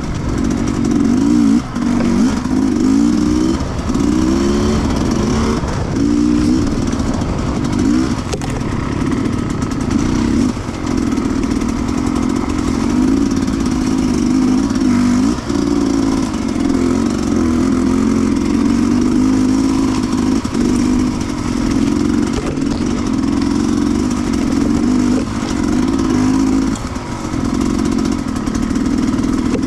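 Sherco 300 two-stroke enduro motorcycle engine being ridden, its revs rising and falling over and over with the throttle.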